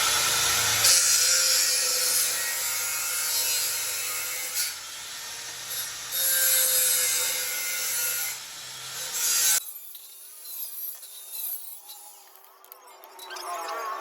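A tool cutting into the scooter's exhaust pipe: a harsh, continuous rasping that stops abruptly about ten seconds in, followed by fainter scattered sounds.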